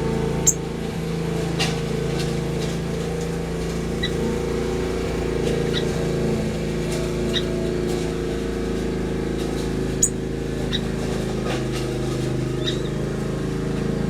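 Aviary finches giving short, high chirps every second or two, with a sharper single chirp about half a second in and another near ten seconds, over a steady low drone.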